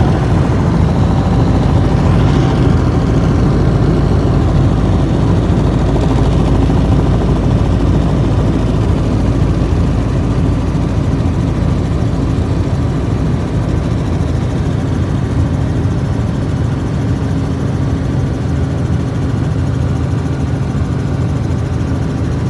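Helicopter running steadily, a low rumbling engine and rotor sound that gets slightly quieter over the second half.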